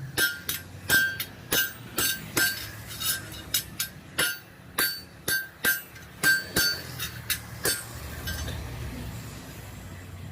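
A hammer striking the Vespa's pressed-steel body panel, sharp ringing metallic blows about two to three a second during rust repair, which stop about eight seconds in. A low steady hum follows.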